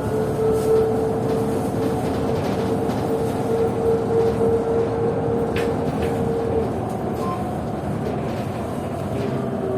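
Running noise of a PKTS-6281.01 'Admiral' trolleybus under way, with a steady electric whine that fades out about two-thirds of the way through.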